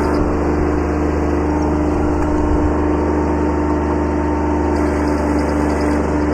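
Kubota B7100 subcompact tractor's three-cylinder diesel engine running at a steady speed.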